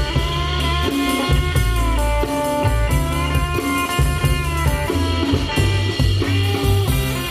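Live blues band playing a slow instrumental break: a lead line of held, slightly bending notes over guitar, bass and a steady drum beat.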